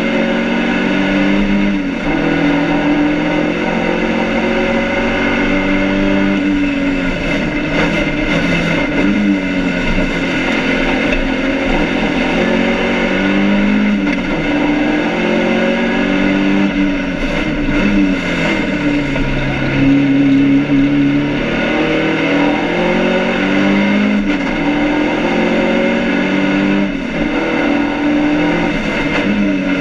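BMW 2002 race car's four-cylinder engine, heard from inside the cabin, pulling hard on track. Its note climbs through each gear and drops at every change, with a low dip about twenty seconds in before it climbs again. The engine is being short-shifted because it is overheating.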